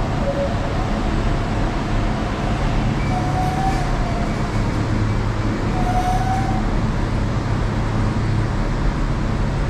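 MTR East Rail line R-Train electric multiple unit running, a steady rumble with a low hum and two brief faint whines about three and a half and six seconds in.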